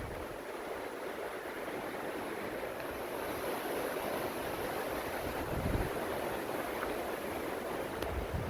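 Wind blowing as a steady rush, with a gust buffeting the microphone about five and a half seconds in.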